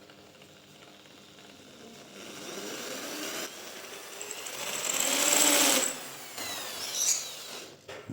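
A small power tool motor running, building up over a few seconds and cutting off suddenly about six seconds in, followed by a short burst about a second later.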